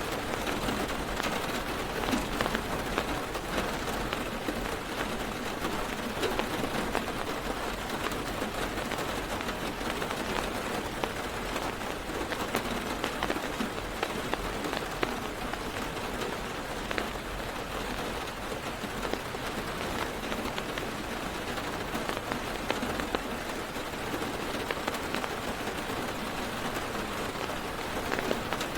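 Steady heavy rain drumming on a car's roof and windows, heard from inside the car, a dense patter with many sharp individual drop hits.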